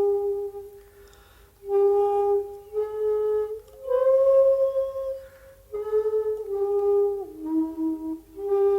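Solo shakuhachi bamboo flute playing slow, long held notes with breathy pauses between phrases. The line steps up about four seconds in, sinks lower near eight seconds, and returns to its opening pitch at the end.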